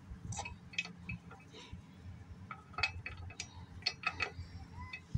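Metal sockets clinking and tapping as they are sorted through and tried on the mower blade bolt for size, a dozen or so sharp metallic clicks scattered through.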